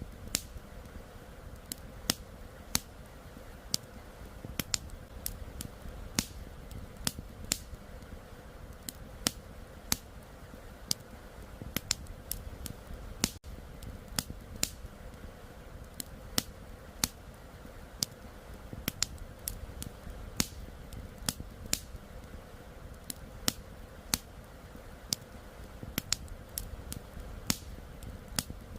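Wood campfire crackling, with irregular sharp pops several times a second over a low steady rush of flowing river water.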